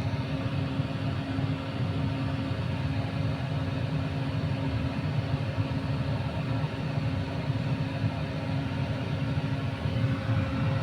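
Steady low hum and rumble of a running motor, with a constant droning tone.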